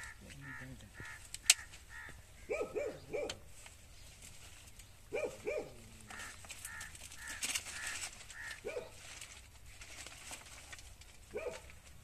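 Birds calling: a few loud calls, several in pairs, over a steady run of quick high chirps. There is one sharp click about one and a half seconds in.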